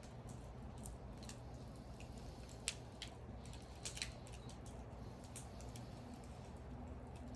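Wood fire crackling: faint, irregular snaps and pops of burning wood, with two sharper pops about a third of the way and halfway in, over a low steady rumble.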